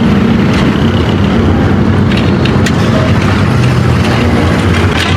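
A heavy engine running steadily, with a few light clicks over it.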